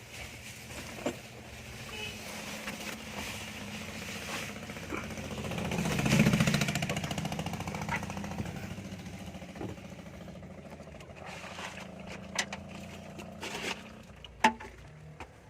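A motor vehicle engine passing by, growing louder to a peak about six seconds in and then fading away, over a steady low engine hum.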